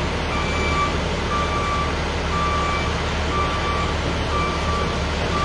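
A vehicle's reversing alarm beeping about once a second, over a heavy engine idling.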